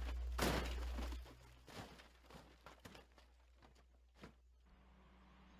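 A steady low hum that drops away about a second in, with a short rustle and scattered knocks and clicks.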